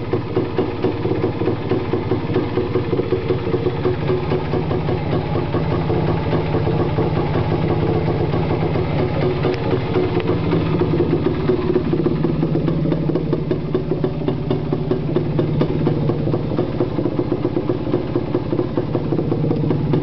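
1978 Yamaha DT250's two-stroke single-cylinder engine idling steadily while it warms up after a cold start. It is a little cold-blooded and not yet running at its best.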